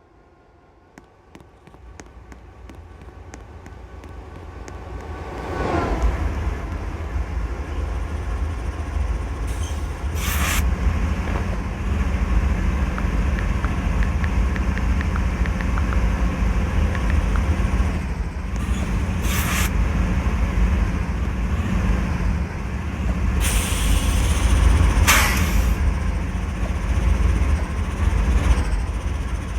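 Freight train passing: a steady low rumble of wheels on rail that builds over the first several seconds, with a few short hissing bursts.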